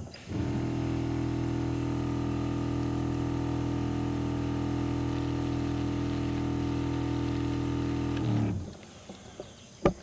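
Motor-driven sprayer pump running steadily at one speed while spraying water on pumpkins, then cutting off about eight seconds in. A sharp click follows near the end.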